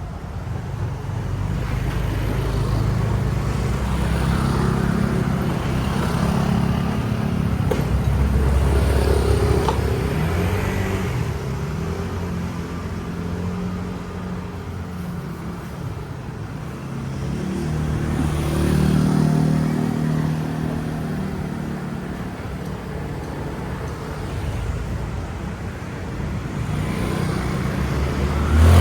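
City street traffic: vehicle engines passing, the rumble swelling and fading, loudest about a third of the way in and again past the middle.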